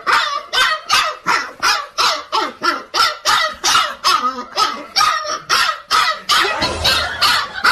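A dog barking over and over in quick succession, about three barks a second without a pause.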